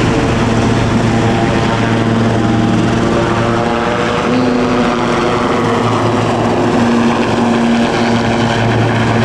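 Helicopter running close by: a loud, steady rotor and engine sound with several humming tones, and a whine that falls in pitch past the middle.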